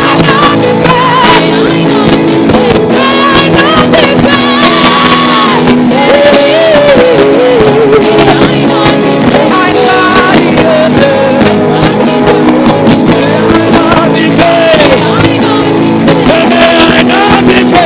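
Loud worship music: sustained keyboard chords with voices singing and crying out over them.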